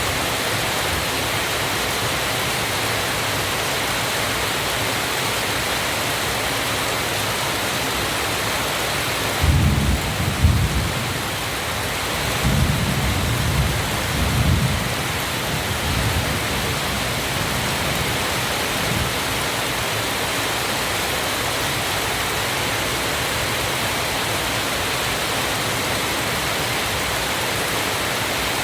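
Waterfall: a steady rush of falling water. Deep rumbles come in about ten seconds in and again a few seconds later, louder than the water.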